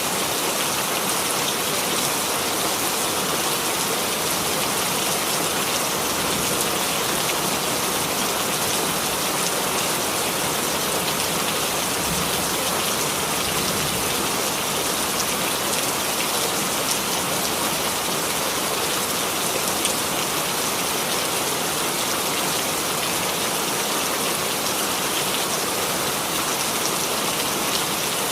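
Steady rain falling on a surface, an even patter of many drops with no let-up.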